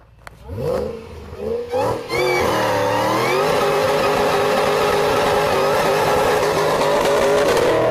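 Shelby GT500 Mustang's supercharged V8 revved twice in quick rising blips. From about two seconds in it is held at high revs in a burnout, the rear tyres spinning and smoking.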